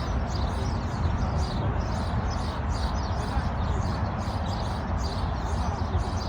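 Many birds chirping at once in a dense, continuous chorus over a steady low rumble.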